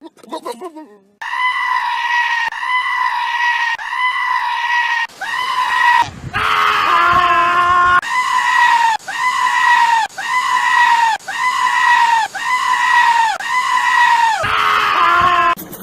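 A goat screaming over and over in a steady run of about a dozen high, even cries, each about a second long. A lower-pitched bleat joins in about six seconds in.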